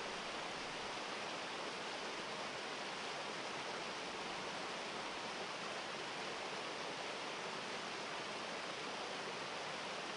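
Steady rush of a waterfall: an even roar of falling water that does not change.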